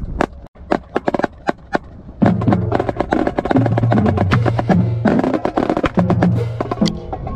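A steady clicking beat, about three clicks a second; then, about two seconds in, a song with a strong bass line comes in and a marching snare drum plays along with it in quick, dense strokes.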